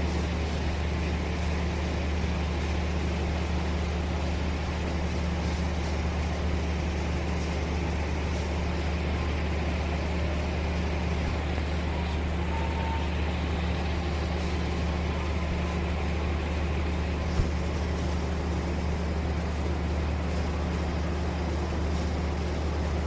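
Diesel train engine idling with a steady low drone that holds an even level throughout, with a single small click about 17 seconds in.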